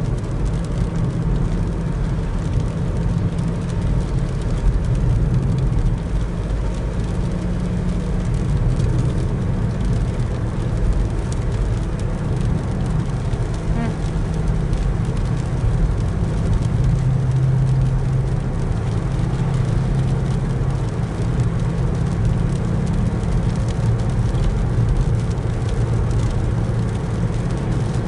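Steady running noise of a car heard from inside the cabin while driving: a low engine and tyre drone with road hiss.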